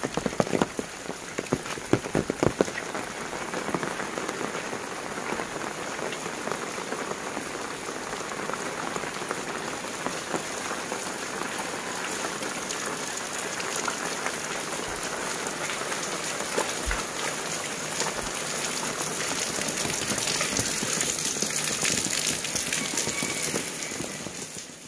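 Heavy rain falling steadily on roofs, leaves and puddled ground, with sharp close drop impacts in the first few seconds. It swells a little near the end, then fades out.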